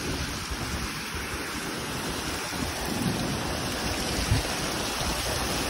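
Heavy rain pouring steadily in a severe storm, with gusts of wind rumbling underneath.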